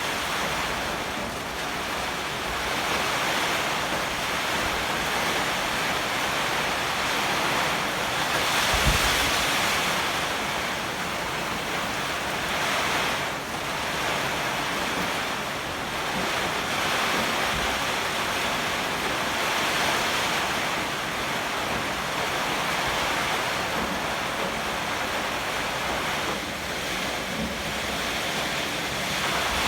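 Heavy typhoon rain with strong gusting wind: a steady dense rush that swells in gusts, with a brief low buffet about nine seconds in.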